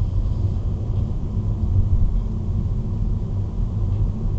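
Car engine and road rumble heard from inside the car as it moves off from a stop: a steady low drone.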